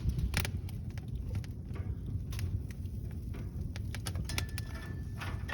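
Wood fire of kindling and small sticks crackling in a fireplace, with irregular sharp pops over a steady low rumble.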